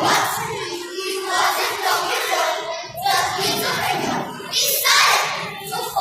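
A group of children's voices calling out and chanting together, many voices at once.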